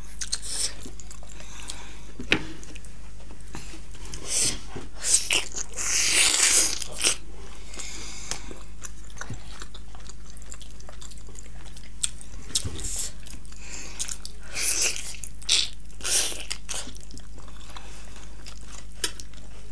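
Close-miked eating sounds: biting into and chewing juicy buffalo-meat momo and black bean noodles, with wet mouth smacks and clicks coming irregularly and a longer wet burst about six seconds in.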